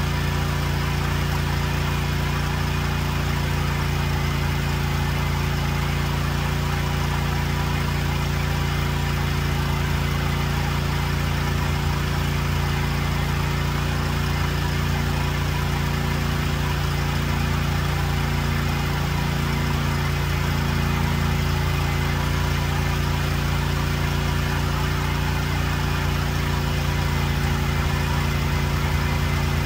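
Cub Cadet lawn tractor engine idling steadily, freshly started in cold weather.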